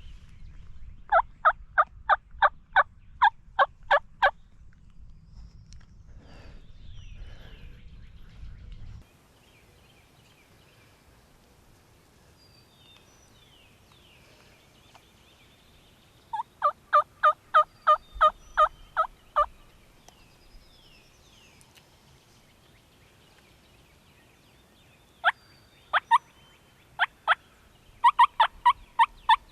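Turkey calling in runs of about ten evenly spaced yelp notes, about three a second: one run near the start, one in the middle, and another building near the end. A low rumble lies under the first third and then stops.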